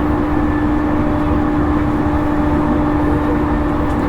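Inside a JR East E231-series electric multiple unit's motor car running at a steady speed: continuous wheel-on-rail rumble under a steady traction-motor hum that holds one pitch.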